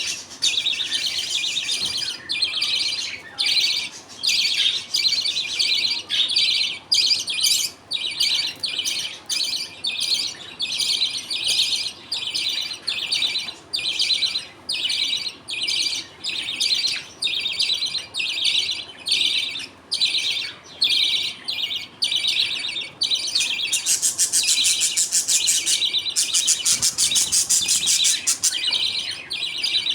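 A flock of budgerigars chattering and chirping continuously in short bursts, with a denser, more continuous stretch near the end.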